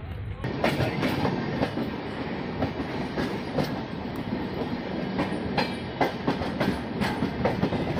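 Passenger train running over the rails, heard from an open coach door: a steady rumble with irregular clattering clicks of the wheels over rail joints, starting about half a second in.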